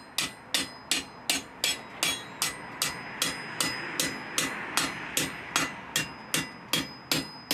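Hammer blows on hot steel at the forge in a steady rhythm, about three a second, each with a short metallic ring. The steel piece is being hammered down over a post.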